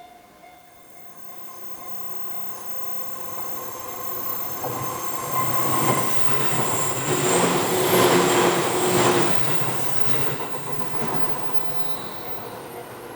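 A Seibu Tamagawa Line electric train passing over a level crossing. It grows steadily louder to a peak about eight seconds in, then fades, with a thin high squeal from the wheels over the rumble.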